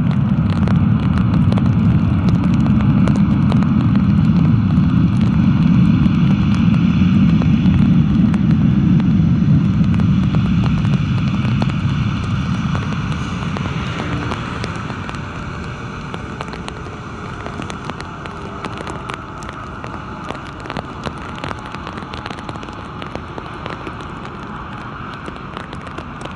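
Boeing 787-8 jet engines in reverse thrust after landing on a flooded runway: a loud low rumble that comes up suddenly, holds for about ten seconds, then dies away. Heavy rain pattering runs throughout, left on its own near the end.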